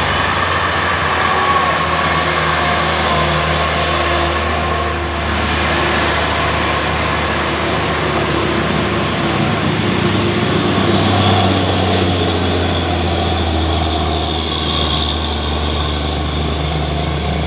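Diesel engine of a Hino 500 dump truck loaded with sand, running steadily with an even low drone.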